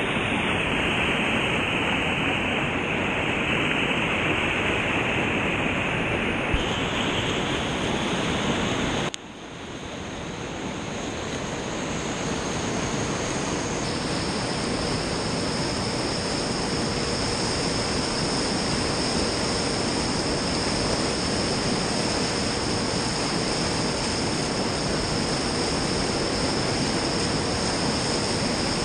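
Steady rushing of whitewater on the Gave d'Ossau. About nine seconds in it drops sharply and swells back over the next few seconds.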